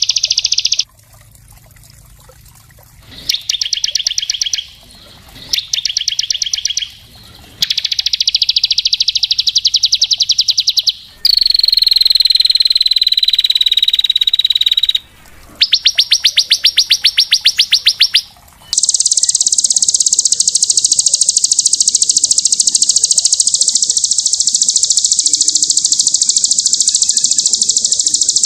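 Recorded song of small songbirds used as a training track: rapid, dense high trills broken by short gaps, a falling whistled phrase near the middle, and a long unbroken high trill through the last third.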